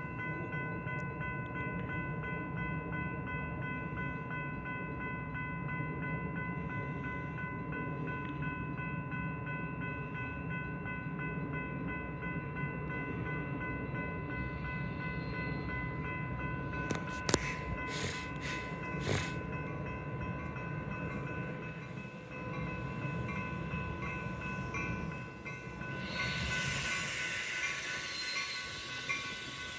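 Metra commuter train's diesel locomotive running at the station platform: a steady rumble with a steady high whine. A few sharp clanks come a little past halfway, and a louder hiss rises near the end.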